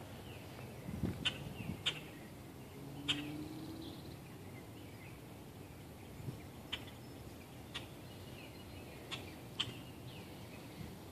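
Birds chirping: short, sharp chip notes every second or so, with fainter chirps between them, over low outdoor background noise.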